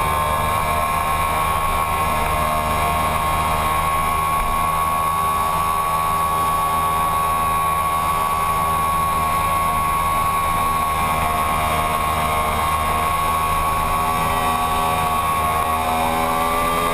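2009 Yamaha YZF-R1 inline-four engine running at a steady high pitch, held almost constant through a long sweeping corner under throttle, then rising near the end as the bike straightens and accelerates. Steady wind rush runs underneath.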